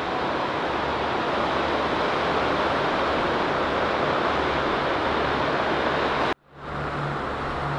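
Ocean surf breaking with a steady rush of noise, wind on the microphone. About six seconds in it cuts off abruptly and gives way to a different low, steady hum.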